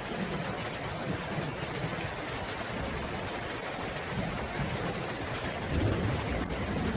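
Steady rain falling, with a low rumble of distant thunder that swells about six seconds in.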